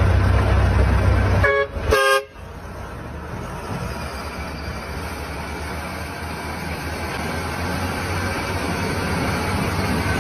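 Vehicle horn sounding two short honks about one and a half to two seconds in, between stretches of motor-vehicle road noise; the noise before the honks is loud and low, and after them it is quieter and gradually grows louder.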